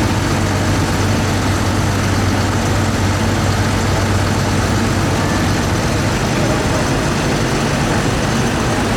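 A heavy engine running steadily at an even, low speed with a constant low hum and no revving, over loud outdoor noise.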